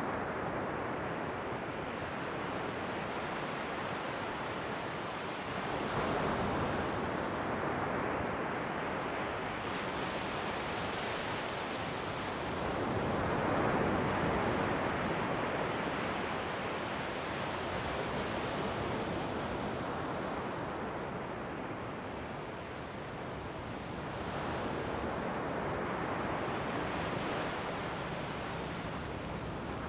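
Ocean waves breaking and washing on the shore in a continuous rush that swells with each wave, about every four to six seconds.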